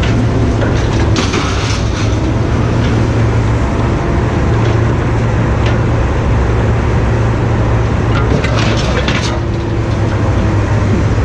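A heavy vehicle's engine running steadily, with a strong low hum, and short rattles and clanks around a second in and again near the end.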